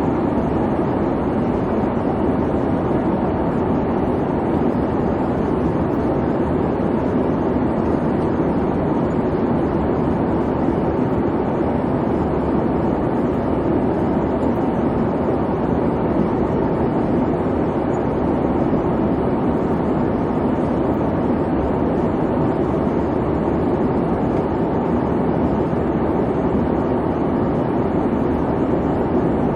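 Airliner cabin noise in flight: a steady low rumbling hiss of engine and airflow with no changes or events.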